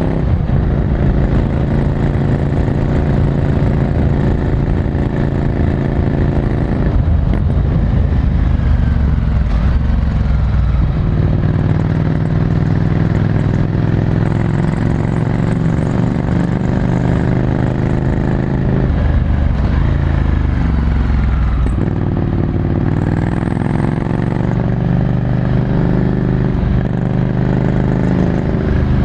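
Ducati Scrambler Desert Sled's air-cooled 803 cc L-twin running through a full Termignoni exhaust, heard from the rider's seat. The engine note holds steady, then changes pitch about seven seconds in and again around twenty seconds in as the bike slows and picks up speed again.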